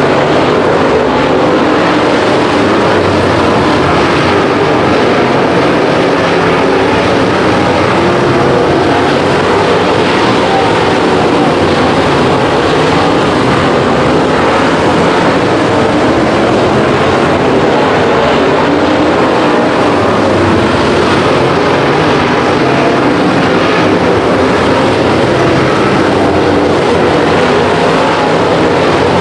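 Dirt late model race cars' V8 engines running hard during a feature race, a loud, unbroken engine drone with no letup.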